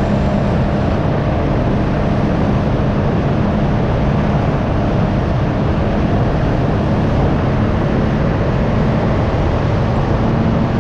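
Can-Am Ryker 900's three-cylinder engine running at a steady pitch while riding, with wind rushing over the microphone.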